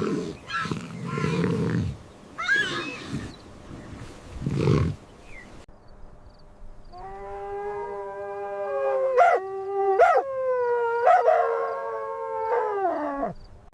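Lioness and cub growling and grunting, a few rough low calls over the first five seconds or so. Then a different animal gives one long, steady howl lasting about six seconds, falling in pitch at the end, with a few sharp clicks over it.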